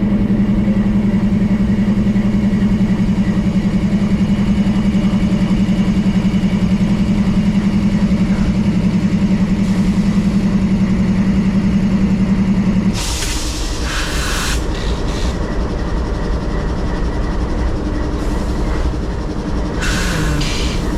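Locomotives running close by, a loud steady pulsing engine drone that drops away about two-thirds of the way through. Short bursts of hissing follow, once just after the drop and once near the end.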